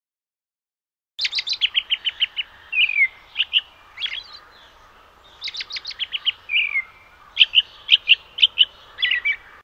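A small songbird chirping, starting about a second in: quick runs of short, high chirps, with a couple of downward-sliding notes and a short pause midway.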